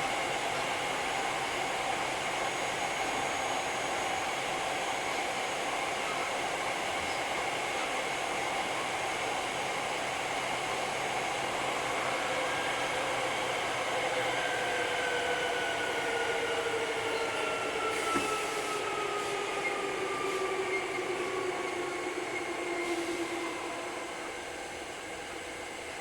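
Hankyu 3300 series electric train heard from inside the car, running with a steady rumble and traction motor whine. From about halfway, the whine falls steadily in pitch and the noise eases as the train slows.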